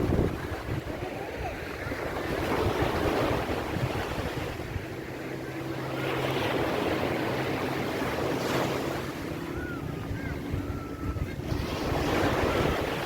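Ocean waves washing onto a beach, swelling and ebbing, with wind buffeting the microphone. A faint steady low hum runs through the middle stretch.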